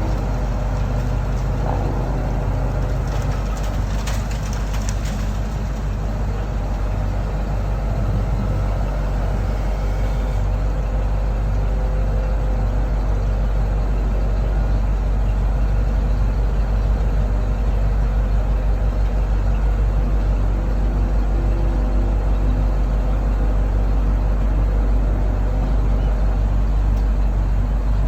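Ford F700 dump truck's engine idling steadily, with a few light clicks about four seconds in.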